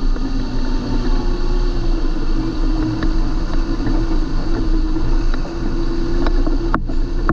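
John Deere 8320 tractor's six-cylinder diesel engine running steadily: a constant low drone with a whine that drifts slightly in pitch. There are a few short clicks over it, the sharpest near the end.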